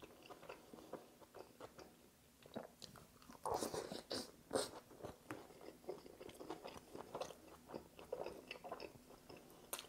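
A man eating a buffalo chicken sandwich: faint chewing and wet mouth smacks, with a cluster of louder smacks about three and a half seconds in as he takes the last bite.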